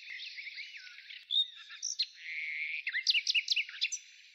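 Songbirds chirping and whistling in many quick, overlapping notes that rise and fall, fading near the end.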